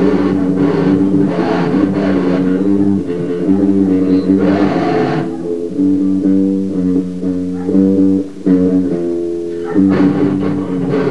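Heavy band music from a grind compilation: an electric guitar and bass riff with drums. The drums drop out about five seconds in, leaving the guitar riff on its own, and the full band comes back near the end.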